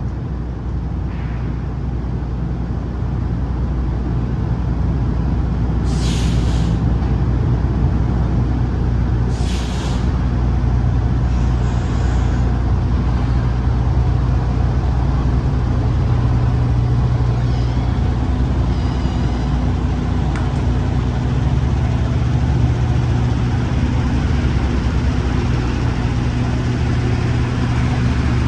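Semi truck's diesel engine running steadily at low revs, with two short air-brake hisses about six and nine and a half seconds in.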